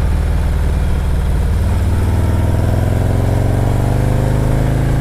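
Harley-Davidson Milwaukee-Eight V-twin engine running under way, pitch rising gradually through the middle and dropping back near the end.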